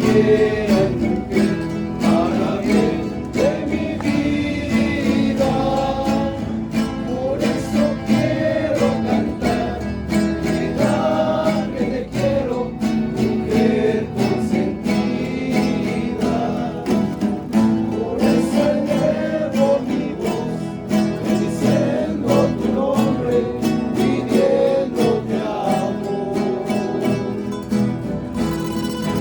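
Rondalla ensemble performing: acoustic guitars strummed and plucked under several voices singing a romantic song together.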